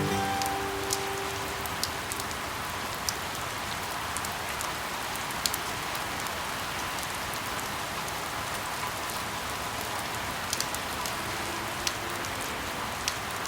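Steady rain falling, with now and then a single louder drop tapping close by.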